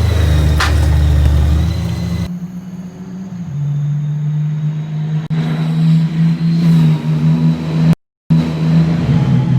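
Honda Gold Wing F6C's flat-six engine running through a modified Cobra exhaust. The sound changes abruptly about two seconds in and again about five seconds in, and drops out briefly near eight seconds before the engine sound resumes.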